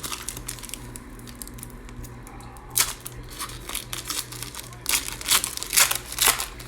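Crinkling and tearing of a trading-card pack wrapper being handled, in short bursts: one a little under 3 s in and a cluster from about 5 to 6 s, over a low steady hum.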